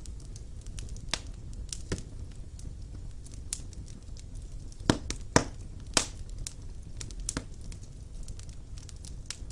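Fire burning in a fireplace: irregular sharp crackles and pops over a low steady rumble, with a few louder pops about five to six seconds in.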